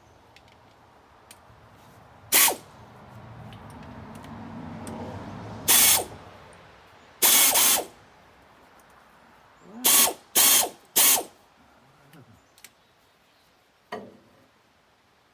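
Ratchet wrench with a 13 mm socket clicking in several short bursts as it is swung back and forth on a bolt, working to loosen the belt tensioner to remove a worn fan belt.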